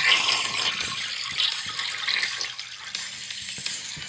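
Water running steadily from a tap, splashing into a sink.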